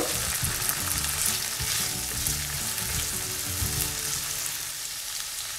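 Chopped onion, potato cubes and green chillies sizzling in hot oil in a non-stick frying pan, stirred with a silicone spatula: a steady hiss with scattered small crackles and soft knocks of the spatula.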